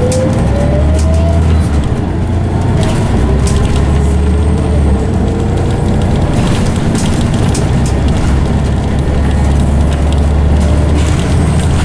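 Scania OmniCity bus on the move, its ZF automatic gearbox whining loudly and rising in pitch as the bus gathers speed, once in the first second or so and again from about three to six seconds in. Under it runs a steady low engine drone, with scattered clicks and rattles.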